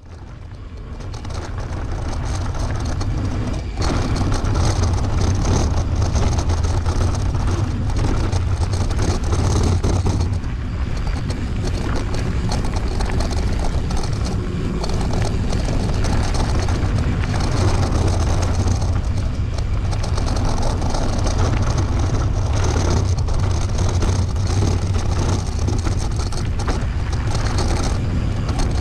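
Mountain bike rolling fast down a dirt trail: wind buffeting the camera microphone with a steady low rumble, over tyre noise and scattered rattles and knocks from the bike. It builds over the first few seconds as speed picks up, then holds steady.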